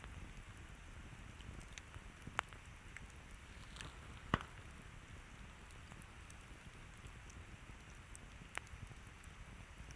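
Campfire burning with a low steady rustle and scattered crackles, with sharp pops about two and a half seconds in, just over four seconds in, and near the end.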